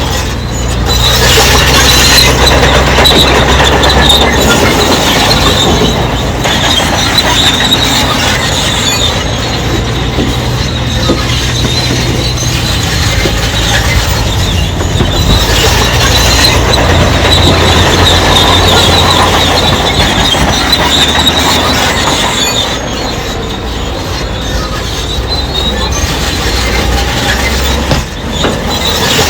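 Crawler bulldozer working, its diesel engine running steadily under load while its steel tracks squeal and clank.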